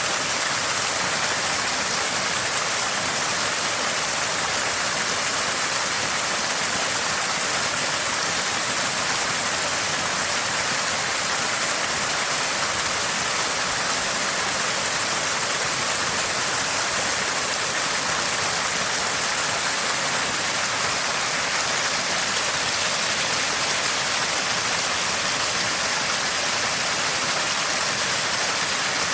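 Water gushing from a small spring, a constant gurgle and rush that holds steady throughout.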